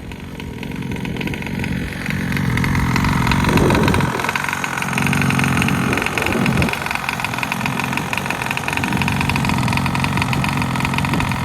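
Two-stroke gas engine of a large-scale RC car, fitted with a Roostertail 990 carburetor, running as the car is driven. It grows louder over the first few seconds, then keeps running steadily.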